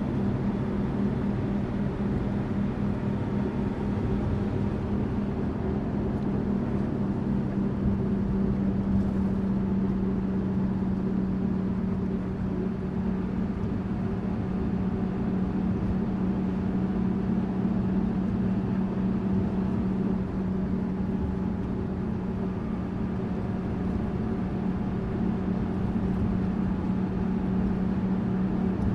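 Tourist bus running steadily: a constant engine drone with a strong low hum, over road noise.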